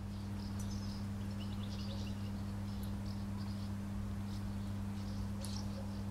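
Faint, scattered high-pitched chirps of small birds, with a quick run of ticks between about one and two seconds in, over a steady low hum.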